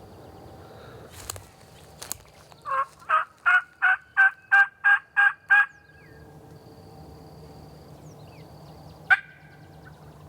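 Wild turkey yelps: a run of about nine evenly spaced notes, roughly three a second, then a single short sharp note near the end.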